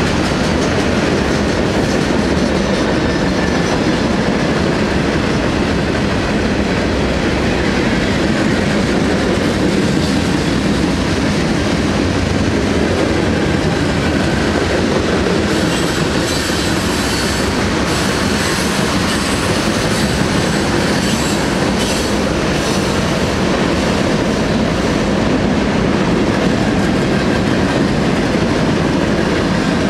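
Freight cars of a long train rolling past on steel wheels, a steady, unbroken rolling noise. A little past halfway through, high-pitched wheel squeal rises over it for several seconds.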